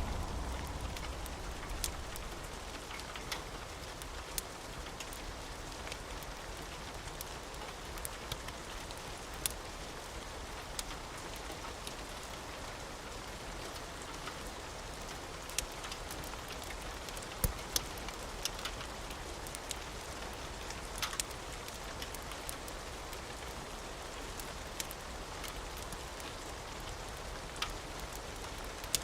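Steady rain falling, an even hiss with scattered sharp ticks and pops. The low rumble of thunder fades out over the first few seconds.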